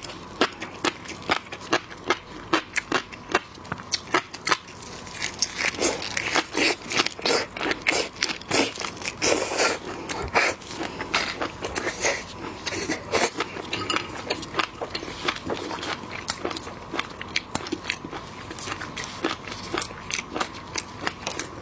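Close-miked eating of seafood: a rapid, irregular run of crunches and crackles from biting and chewing, with a faint steady tone underneath.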